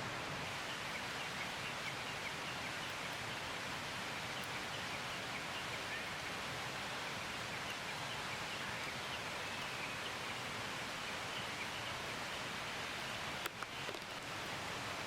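Steady rushing hiss of forest ambience, with faint high chirps scattered through it and one sharp knock near the end.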